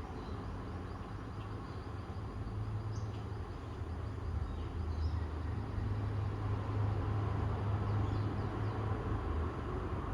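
Outdoor morning ambience: a steady low rumble that grows louder about halfway through, with a few faint, short high chirps.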